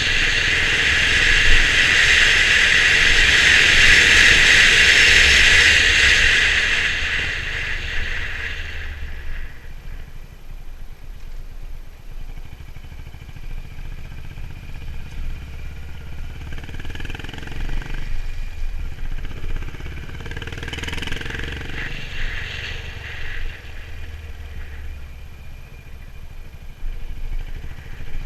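Honda CB350 RS single-cylinder motorcycle running on the move. A loud, even rushing noise covers it for the first six seconds or so and fades out by about eight seconds in, leaving the engine and some rattle quieter.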